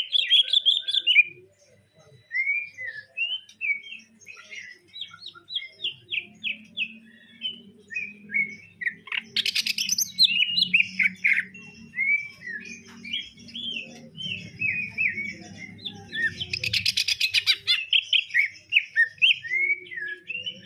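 Green leafbird (cucak ijo) singing a continuous run of varied quick whistled and chirping phrases, its song filled with mimicked Eurasian tree sparrow chirps. There are two loud, rapid chattering bursts, about ten and seventeen seconds in.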